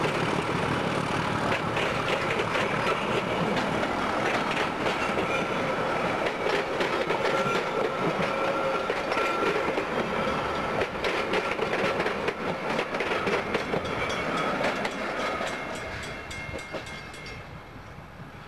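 Passenger train carriages rolling past, their wheels clicking rapidly over rail joints, with a faint steady whine underneath. The sound dies away over the last few seconds.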